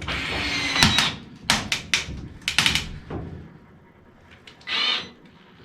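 Metal parts of a furnace heat exchanger being worked apart by hand: about a second of scraping with a thin squeal, then a run of sharp metallic knocks and clicks, and a short high squeak near the end.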